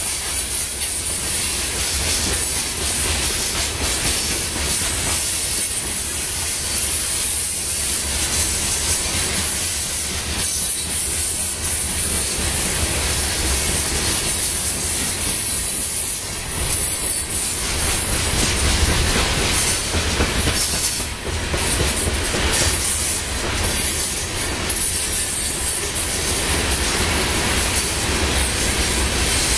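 BNSF freight train's covered grain hopper cars rolling past: a steady rumble and clatter of wheels on the rails, with a constant high hiss over it.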